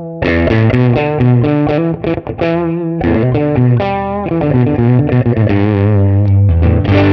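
Fender Stratocaster electric guitar played through a Nux MG300 modelling amp with a distorted tone, a quick run of chords and single notes with a few short breaks.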